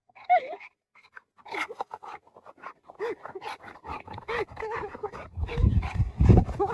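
Dog panting fast with short rising-and-falling whines, excited to play. A low rumble swells for about a second near the end.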